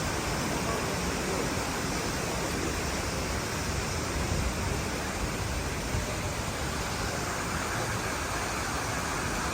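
Steady rushing roar of a large waterfall's falling water, an even noise that does not change.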